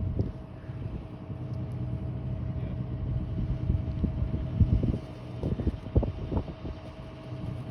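Heavy recovery machine's engine running steadily, with a string of irregular clunks and knocks starting about four and a half seconds in.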